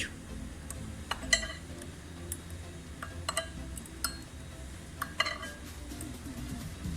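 Metal wrench clinking on the brake caliper's bleed screw as it is tightened: a scattering of sharp, short metallic clinks, a few of them close together, over a low steady hum.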